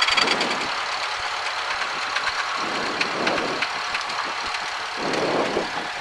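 Cessna 172's piston engine running at low power as the plane rolls off the runway after landing, a steady engine drone in the cabin.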